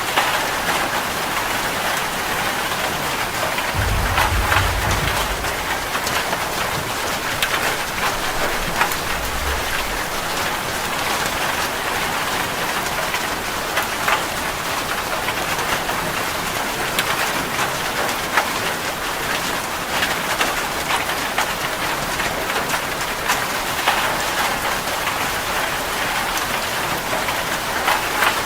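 Heavy rain falling steadily on a metal roof, thick with sharp taps of individual drops. A low rumble of thunder comes about four seconds in, and a fainter one a few seconds later.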